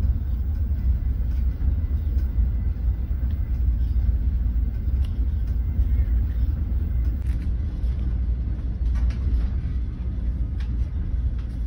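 Steady low rumble of a passenger train carriage on the move, heard from inside an open-plan sleeping car, with a few faint clicks and rattles over it.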